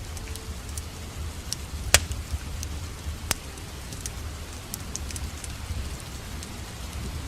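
Steady rain mixed with a crackling wood fire over a low, even rumble. Sharp pops and snaps come at irregular moments, the loudest about two seconds in and again just after three seconds.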